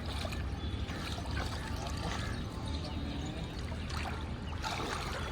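Water trickling and splashing over a steady low rumble, with faint voices in the background.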